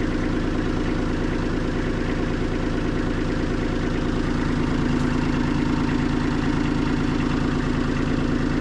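Kubota machine's diesel engine idling steadily.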